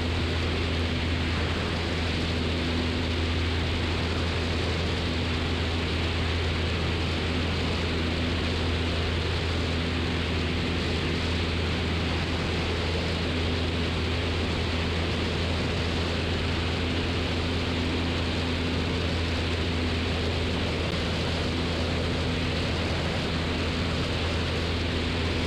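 Steady drone of a 1969 Cessna 172's piston engine and propeller in flight, heard inside the cabin with an even rush of airflow hiss.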